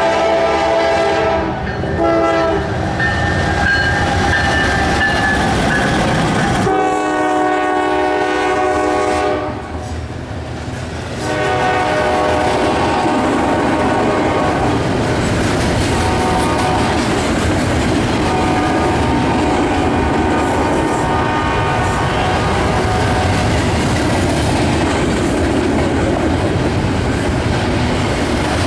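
Train horn sounding a series of blasts, the longest and loudest from about seven to nine and a half seconds in, then fainter horn tones over the steady rumble of the passing train, its wheels clacking on the rails.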